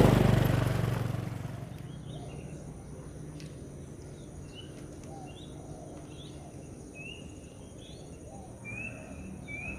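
A motorcycle engine fades away over the first second or so, leaving quiet outdoor background with birds chirping: short chirps throughout and a run of repeated short rising calls in the last few seconds, over a faint steady high hum.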